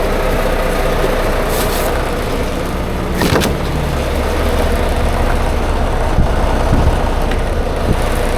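Semi-truck diesel engine idling steadily, with a sharp metallic clank about three seconds in and a couple of lighter knocks later.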